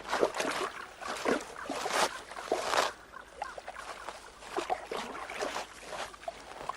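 An otter moving through snow: irregular crunching and scuffling, busiest for about the first three seconds, then sparser.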